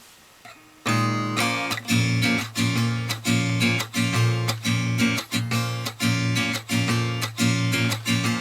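Acoustic guitar strummed in a steady rhythm, about two strokes a second, starting about a second in: the instrumental intro of a sung song.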